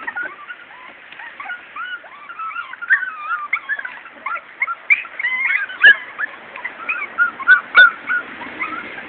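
Morkie (Maltese–Yorkshire terrier cross) puppies whimpering and yipping: many short, high squeaky calls overlap, growing busier after a few seconds. Two sharp knocks come in the second half.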